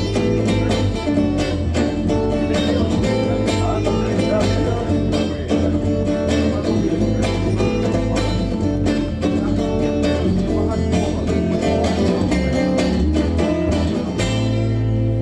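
Instrumental break of a song: acoustic guitar strummed in a steady rhythm, with violin playing held notes over it.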